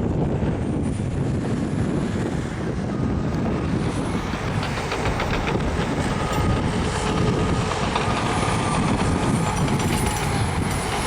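Caterpillar crawler bulldozer working: steady diesel engine noise with the clanking of its steel tracks, which gets denser from about four seconds in, and a thin squeal over it.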